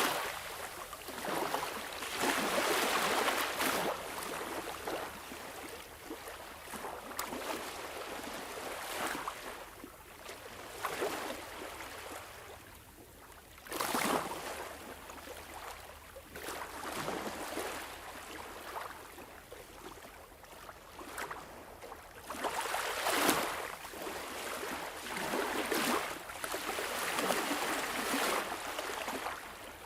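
Sea waves washing in, a rush of water that swells and falls back every few seconds.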